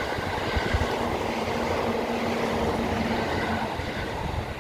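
Electric train running past on the rails: a steady rush of wheels on track with a faint hum, easing off near the end as the last cars pass.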